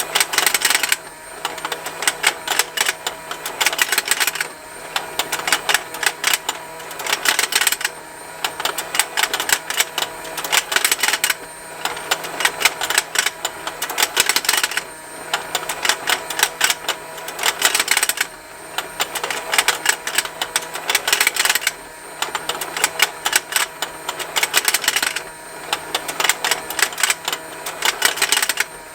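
A battery-powered plastic fishing-game toy running: a small motor turns the pond with a steady hum under a rapid plastic ticking. The ticking comes in stretches of two to three seconds, about every three and a half seconds.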